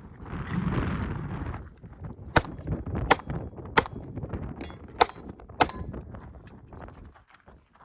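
A string of gunshots, about five sharp reports spaced well under a second apart with a couple of fainter ones between, starting a little over two seconds in. Wind buffets the microphone in the first second and a half.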